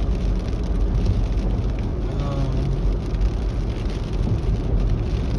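Steady road and engine noise inside a moving car's cabin, with tyres on a wet road in the rain.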